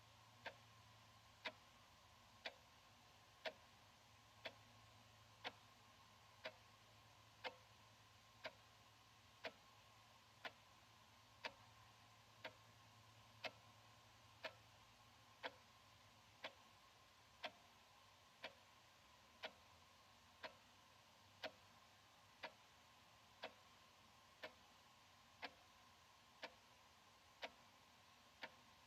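Analog wall clock ticking steadily, one faint sharp tick about every second.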